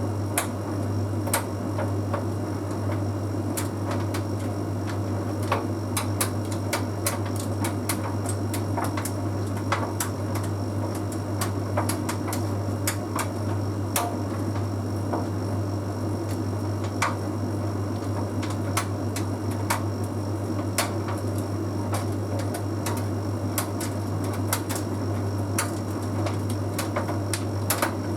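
Bosch Series 6 heat pump tumble dryer running mid-cycle: a steady low hum with irregular light clicks and ticks as the load tumbles in the drum.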